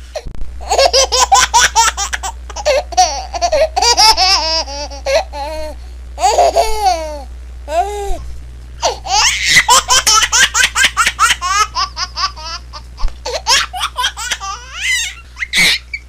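A baby laughing hard in rapid runs of high-pitched giggles and squeals, breaking off briefly and starting again several times.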